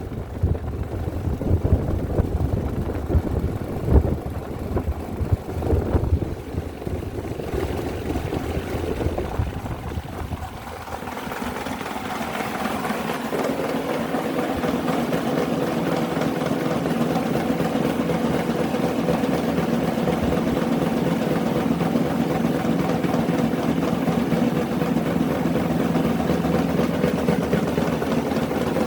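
Electric fan motors running. For the first ten seconds or so there is uneven low rumbling, then from about eleven seconds in it settles into a steady hum with several held tones.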